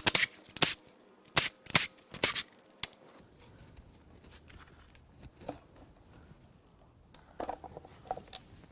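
A quick run of sharp snaps and cracks, then a few faint metallic clinks near the end: the timing cover of a GM 5.7 L Vortec V8 being pried and peeled off its sealant.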